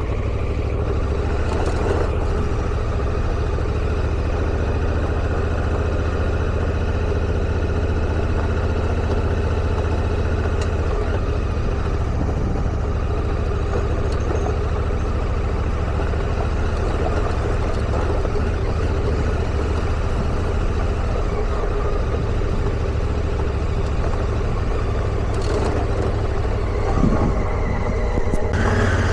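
Motorcycle engine running steadily while being ridden, a constant low drone with a few faint clicks.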